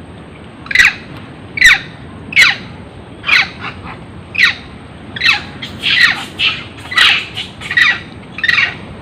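A monkey screaming: a string of short, sharp shrieks that fall in pitch, about one a second at first, then coming faster from about five seconds in.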